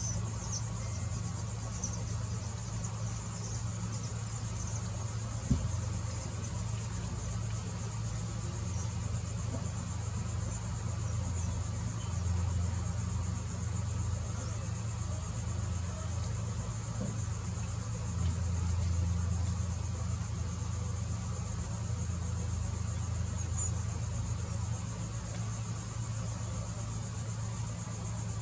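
A steady, high-pitched chorus of insects over a low, steady rumble, with one sharp click about five and a half seconds in.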